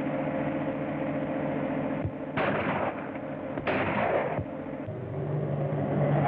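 Car engine running steadily, with two loud bangs about a second apart near the middle.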